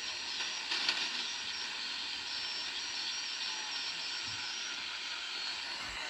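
Rod-tube shortwave receiver giving a steady hiss of band noise through its speaker while it is tuned to a gap between single-sideband amateur transmissions, with a brief crackle about a second in.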